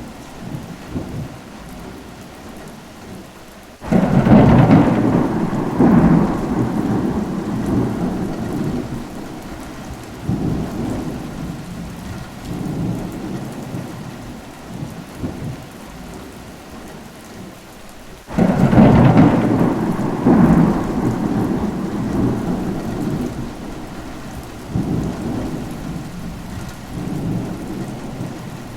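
Steady rain with thunder: a loud thunderclap breaks about four seconds in and rumbles on in swells for several seconds, and a second clap of the same shape comes about eighteen seconds in.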